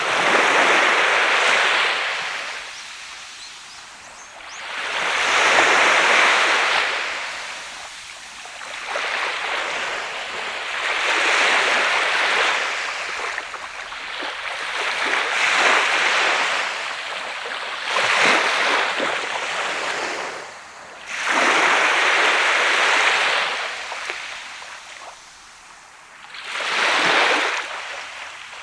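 Sea waves breaking and washing up on a sandy beach. Each surge of surf swells and fades, one arriving every four to five seconds.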